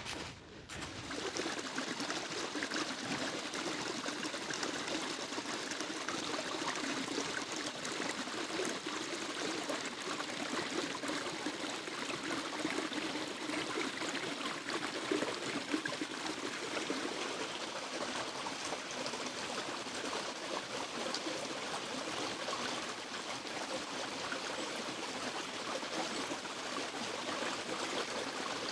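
Running water: a stream flowing steadily over rocks, an even rushing sound without a break.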